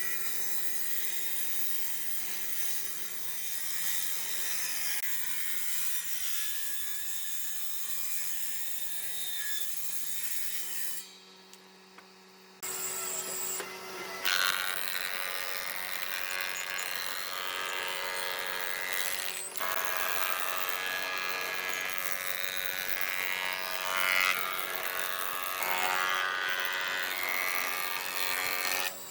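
A woodworking power tool running while it cuts wood, a steady motor hum under a rasping, scraping noise. The sound drops away briefly about eleven seconds in and changes character a few seconds later.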